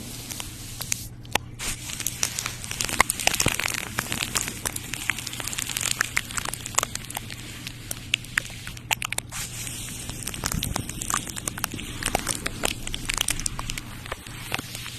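Close-up ASMR crinkling and crackling: a dense, irregular run of small sharp clicks and rustles, as from crinkly material being handled near the microphone, over a faint steady hum.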